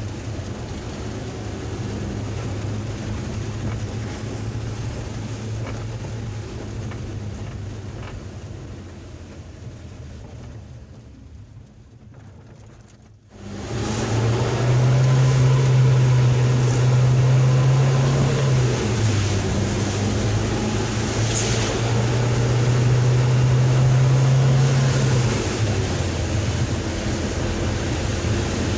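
Suzuki Carry Futura pickup heard from inside the cab in heavy rain: a steady engine hum under rain and road noise. The sound dies away and cuts out abruptly about halfway through, then returns louder, the engine note stepping up and down a few times.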